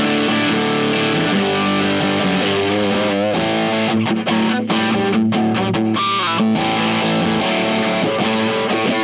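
Distorted electric guitar played through a Wyong Rd Electronics Keris overdrive/fuzz pedal, ringing chords with a few wavering, bent notes, while the pedal's internal gain trimpot is turned up toward full.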